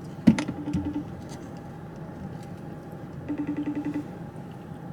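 A phone's outgoing-call ringing tone from its speaker: a short pulsing tone that repeats about every three seconds, heard twice, while the call waits to be answered. A click comes just before the first ring.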